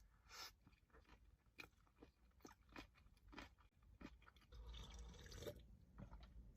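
Faint, close-miked chewing of sushi: wet mouth clicks and crunching, with a denser crunchy stretch about four and a half seconds in.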